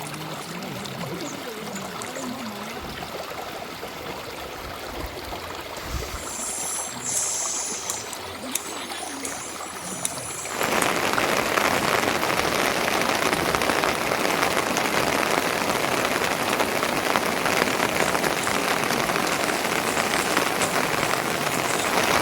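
Steady rushing water noise that jumps abruptly louder about ten seconds in and stays steady after.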